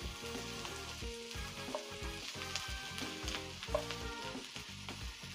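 Sliced bell peppers and red onion sautéing in oil in a hot pan, sizzling steadily. A wooden spatula clicks and scrapes against the pan as they are stirred.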